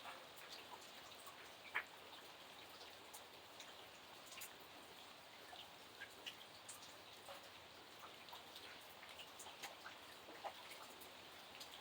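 Faint, steady rain hiss with individual raindrops ticking at irregular intervals, one sharper drip just under two seconds in.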